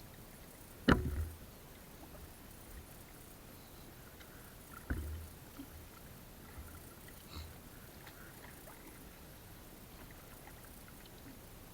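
Two sharp knocks about four seconds apart, then a fainter one, each with a low thud: wood or a pole knocking against a small boat or raft on the water.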